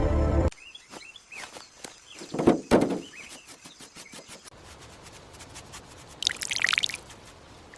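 Jungle ambience with birds chirping. Two sharp knocks come about two and a half seconds in, and there is a brief higher-pitched burst of chirping or rustling near the end.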